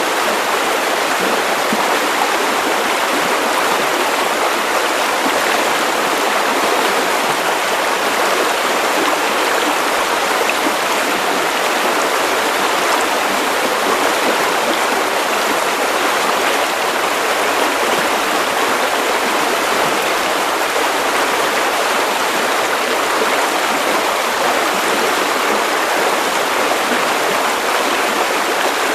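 Steady white noise: an even, unchanging hiss with little bass, played for soothing a baby to sleep.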